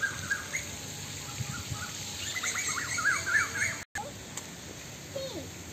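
Small birds chirping in quick, rising-and-falling notes, building to a dense flurry about three seconds in, over steady outdoor background noise. The sound drops out for an instant just before four seconds, and a few scattered chirps follow.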